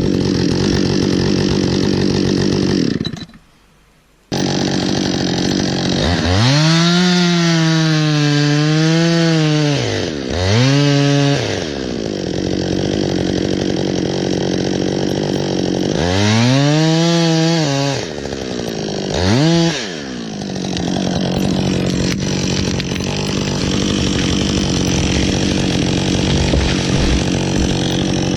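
Two-stroke chainsaw engine running, throttled up and down: twice it revs up, holds high for a few seconds and drops back, each followed by a quick short blip, with steady running between. The sound cuts out abruptly for about a second near the start.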